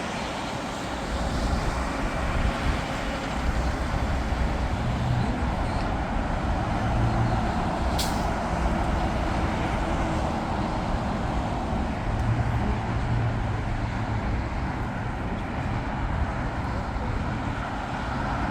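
Steady engine noise at an airport perimeter, a blend of jet aircraft and road traffic, with one sharp click about eight seconds in.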